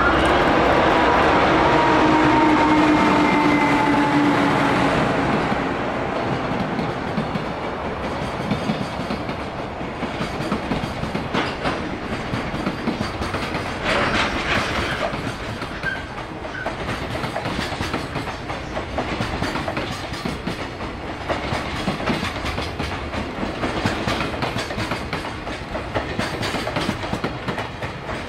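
EH500 electric freight locomotive passing with a long train of container wagons. It is loudest over the first few seconds, with a whine that drops in pitch as the locomotive goes by. After that the wagons' wheels keep up a steady clickety-clack over the rail joints.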